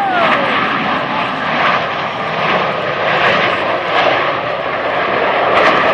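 Jet noise from Blue Angels F/A-18 Hornets in flight: a loud, steady rushing noise. A whine falls in pitch near the start.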